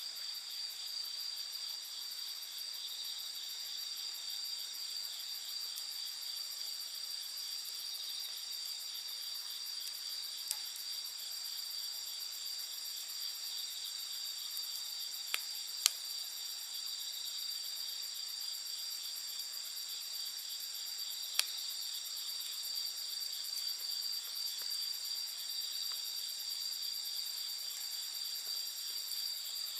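Steady high-pitched chorus of crickets trilling at night, with a few sharp pops from a wood campfire, the loudest about midway.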